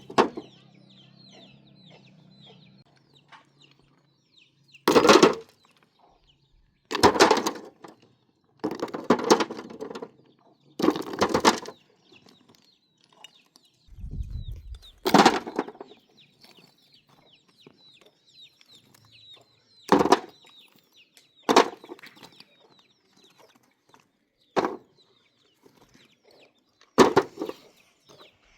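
Chickens clucking and squawking in short loud outbursts every couple of seconds, with faint chirping of small birds in between. A brief low rumble comes about halfway through.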